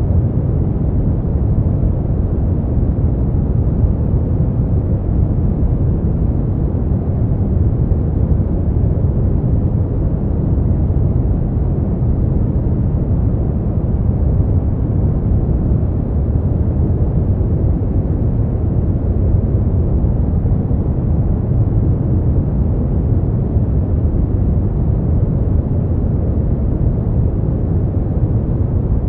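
Continuous noise for sleep, deep and low in tone, without hiss. It stays perfectly even throughout, with no rhythm, tones or separate events.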